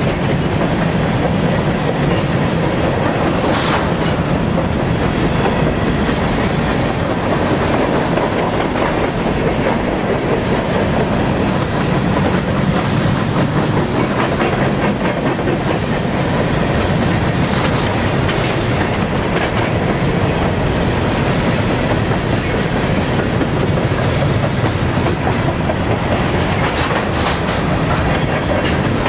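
Cars of an empty grain train rolling past close by: a steady rumble and clatter of steel wheels on the rails, with occasional sharp clicks.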